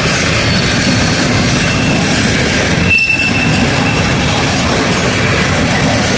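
A train rolling past at close range: a steady rumble of wheels on rails, with a thin high wheel squeal that sets in about three seconds in.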